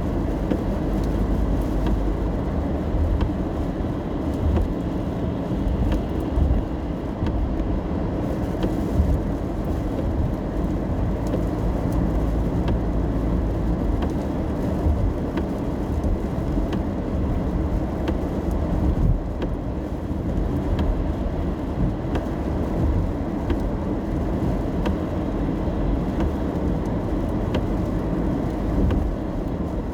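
Steady low road and engine rumble heard from inside a moving car, with faint scattered ticks of rain on the body.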